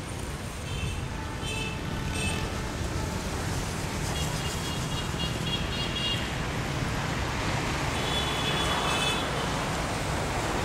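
Steady low vehicle rumble, with short high-pitched tones sounding in bursts: three quick ones in the first couple of seconds, then longer runs near the middle and near the end.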